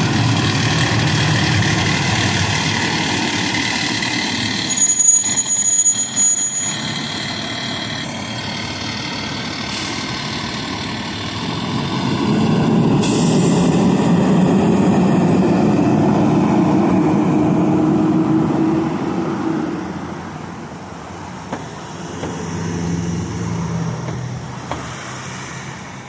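Fire trucks' diesel engines running as they drive off, with a sharp air-brake hiss about halfway through. The engine sound swells, then fades away near the end.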